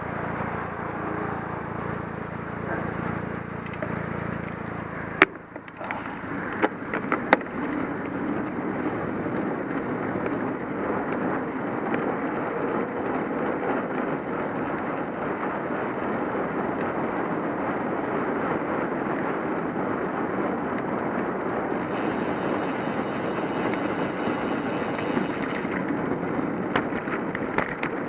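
Steady wind and tyre noise from a cyclocross bike being ridden on the road. A low hum over the first five seconds stops, and a few sharp clicks or knocks follow around six to seven seconds in.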